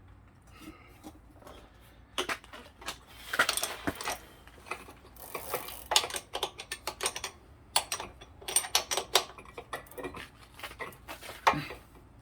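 Metal tools clicking and clinking against the bike's pedal and crank, a string of irregular sharp clicks and taps, some in quick runs, starting about two seconds in.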